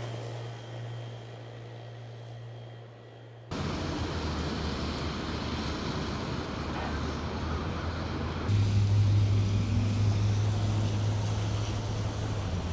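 Outdoor noise with a steady low engine hum, changing abruptly twice as the sound cuts between scenes.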